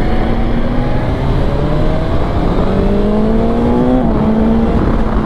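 BMW S1000XR's inline-four engine pulling under acceleration, its note climbing in pitch and dropping back about four seconds in as it shifts up, with wind rush underneath.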